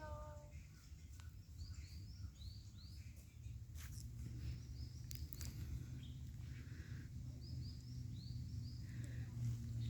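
A small bird chirping faintly in quick runs of short, high, arching notes, several notes a second, over a steady low rumble and a few sharp clicks.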